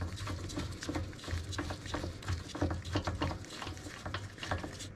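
Irregular small clicks and taps of metal parts and a screwdriver as a carburetor is fitted back onto a small generator engine and its screws are turned.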